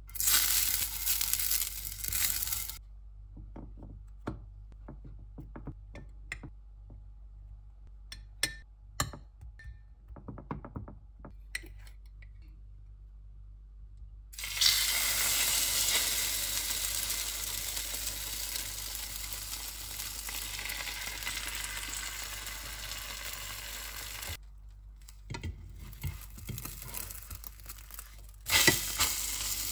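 Egg-soaked bread sizzling as it fries in a pan, in stretches that start and stop abruptly: briefly at the start, for about ten seconds from the middle, and again near the end. In between, a fork taps and clinks against a glass dish of beaten egg.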